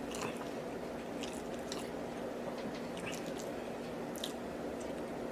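A person chewing a mouthful of food close to the microphone, with scattered small wet clicks and smacks from the mouth, over a steady low hum.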